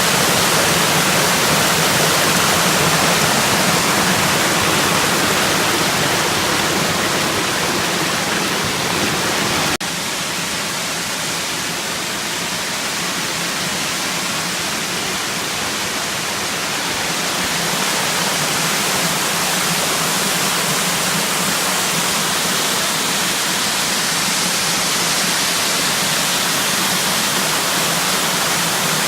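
Steady rush of falling water from a mountain waterfall. About ten seconds in the sound breaks off for an instant and carries on slightly softer.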